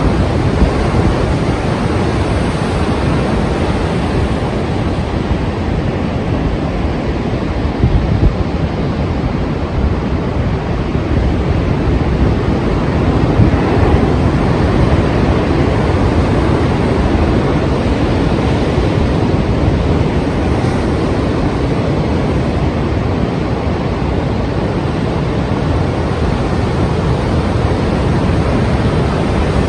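Strong ocean surf breaking continuously, a steady wash of waves with wind rumbling on the microphone, swelling a little about halfway through.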